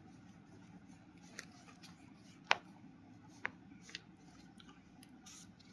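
Faint writing sounds: a few light, sharp taps and clicks of a pen, the loudest about two and a half seconds in, over quiet room tone.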